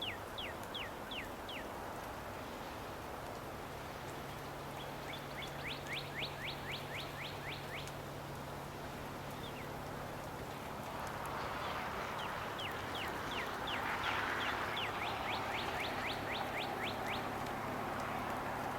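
A songbird repeating runs of quick falling whistled notes, several a second, in three bursts, over the steady rush of a stream that grows louder about eleven seconds in.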